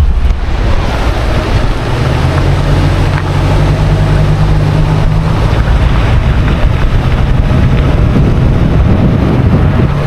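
A car driving, heard from inside: a steady low engine hum, settling in about two seconds in, over tyre and wind noise.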